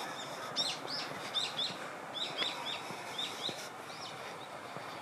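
A small bird chirping a quick run of short, high notes, about a dozen over some three seconds, over a steady background hiss of outdoor noise.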